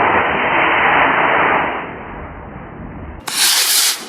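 Solid-fuel model rocket motor burning with a loud, steady rushing hiss that fades from about two seconds in as the rocket climbs away. Near the end, a short, brighter burst of hiss.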